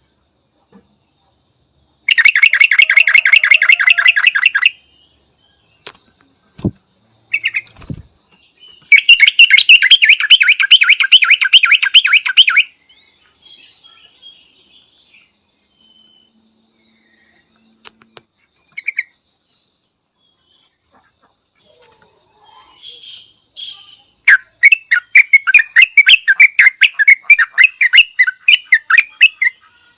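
Yellow-vented bulbul calling in three loud bursts of fast, rapidly repeated chattering notes, each lasting a few seconds, with a few single short notes in between. Two brief low thumps come between the first and second bursts.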